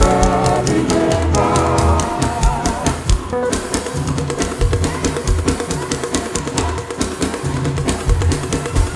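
Live church band music: drum kit and bass guitar keep a steady beat, with a pitched melody over the first three seconds or so that then drops away, leaving mostly drums and bass.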